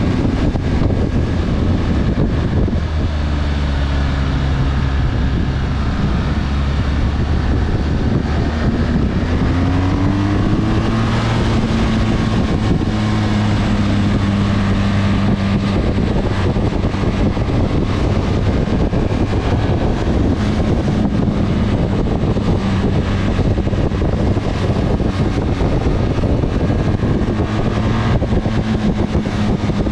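Motorcycle engine running while riding, its pitch dropping about three seconds in and rising again around ten seconds in with throttle and gear changes, over wind noise on the microphone.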